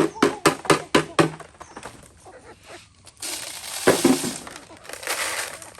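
Quick knocks, about four a second, stopping about a second and a half in; then, after a short lull, several bursts of crunching, rustling noise.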